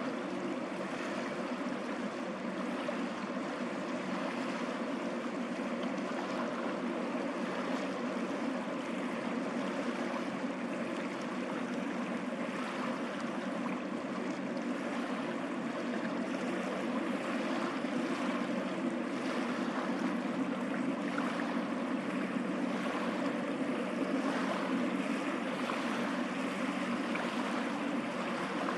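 Rushing sea water and wind noise at sea, with a steady low engine drone from a boat underneath. It swells slightly about two-thirds of the way through.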